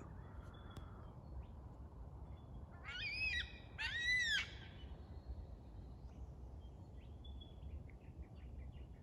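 Yellow-tailed black cockatoo calling twice in quick succession, about three seconds in, each call a rising-then-falling wail: a lone bird calling for its mate.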